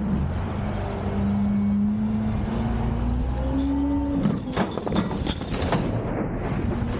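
Autocar/Heil Freedom front-loader garbage truck revving its engine to drive the hydraulics, a whine climbing in pitch for about three seconds as the forks work. From about four seconds in, a run of loud clanks and bangs.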